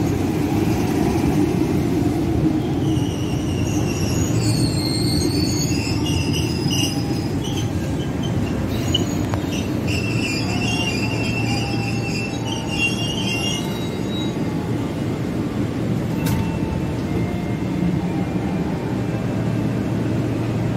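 Electric commuter train running into the platform and braking to a stop: a steady rumble, with high squealing from the wheels and brakes for about ten seconds as it slows, then a single sharp tick once it has nearly stopped.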